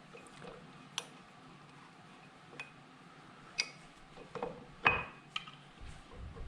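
Hand tools and metal parts being handled: a few light, separate metallic clicks and clinks spread a second or so apart, the loudest about five seconds in.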